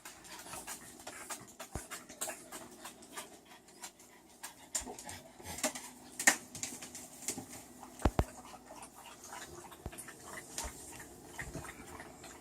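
A dog panting, with many small irregular clicks and taps, two of them louder about six and eight seconds in.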